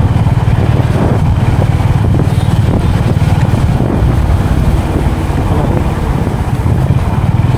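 Motorcycle engine running at a steady speed on the road, with wind noise on the microphone.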